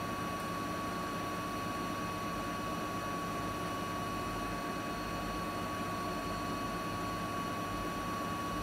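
Siemens iQ300 8 kg front-loading washing machine spinning a load of laundry at its full speed of about 1000 rpm: a steady rush of drum and motor with a steady high whine over it. This is the machine's normal spin sound, with no knocking or bearing noise.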